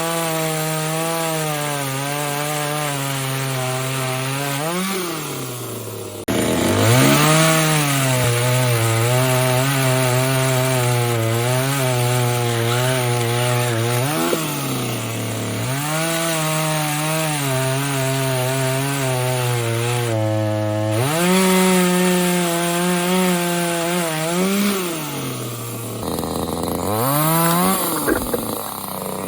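Parkside PBBPS 700 A2 two-stroke petrol chainsaw cutting wood. The engine speed sags and wavers under load and rises sharply several times, briefly, between cuts.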